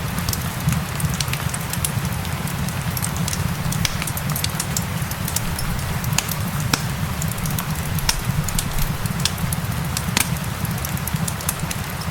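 Wood fire crackling, with frequent sharp pops and snaps at irregular intervals, over a steady hiss of gentle rain and a low rumble.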